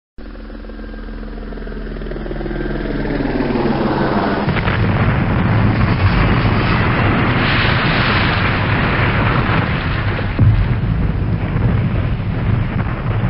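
A loud roaring rumble that starts suddenly, climbing from a rising whine into a dense, steady roar over the first few seconds, with a sharp bang about ten seconds in.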